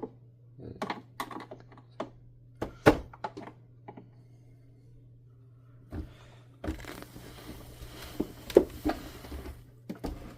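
Plastic vacuum cleaner housing parts being handled and pried apart by hand: irregular clicks and knocks, then scraping and rustling with more taps in the second half.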